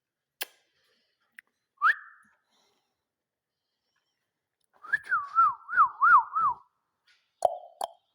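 Clear whistling: a short rising whistle, then a warbling run of about five quick up-and-down notes, with a few sharp clicks and short lower-pitched calls near the end.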